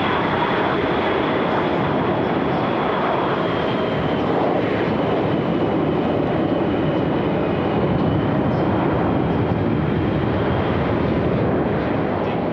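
Boeing F/A-18 Super Hornet turbofan jet engines running at taxi power: a steady roar with a high turbine whine above it that drifts slightly lower.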